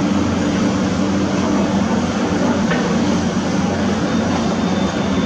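Diesel engine of heavy construction machinery running steadily, a low continuous drone.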